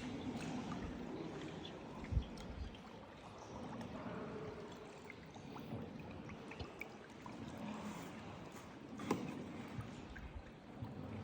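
Water splashing and trickling around a paddled tour boat, with a few sharp knocks.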